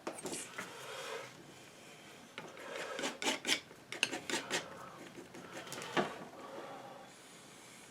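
Painting knife scraping and dabbing paint in a series of short rasping strokes, with sharper clicks of the blade in the middle and about six seconds in.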